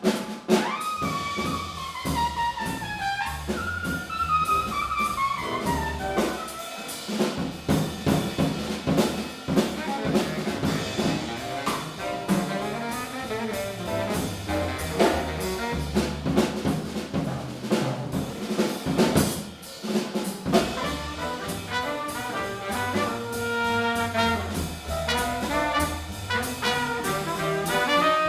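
Small jazz combo playing: a horn line with quick falling runs at the start and held notes near the end, over piano, bass and drum kit.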